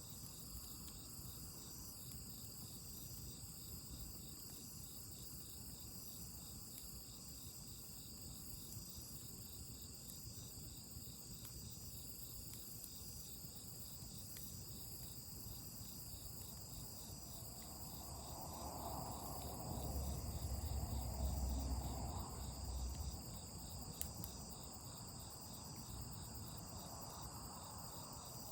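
Crickets and other insects chirping steadily in a high, pulsing chorus. About two-thirds of the way through, a louder low rumble swells for a few seconds and fades.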